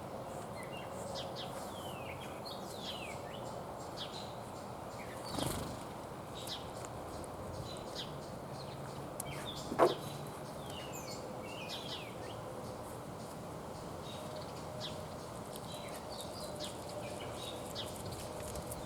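Wild birds chirping repeatedly, short high falling calls over steady outdoor background noise, with one brief louder sound about ten seconds in.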